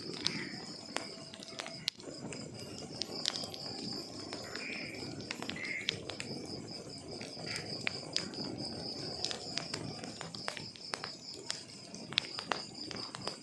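Wood fire crackling: irregular sharp pops and snaps of burning logs over a low rumble of flames. A steady, high-pitched pulsing trill sits behind it.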